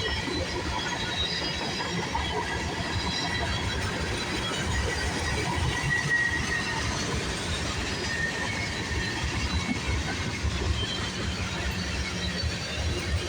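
Cars of a long freight train rolling past with a steady rumble and clatter of wheels on the rail, and short high-pitched squeals from the wheels coming and going throughout.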